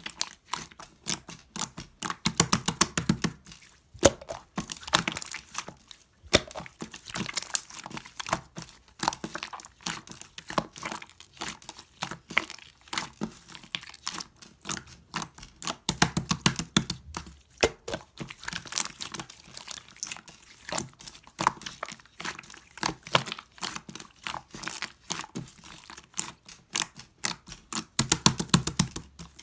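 Chocolate-brown glitter fondant slime squeezed and pressed by hand: a steady run of sticky clicks and small air-bubble pops, with heavier, deeper presses about three seconds in, around the middle and near the end.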